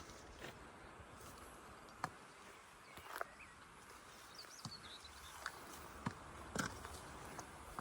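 Scattered, irregular knocks over a faint outdoor background, with a few high bird-like chirps about halfway through.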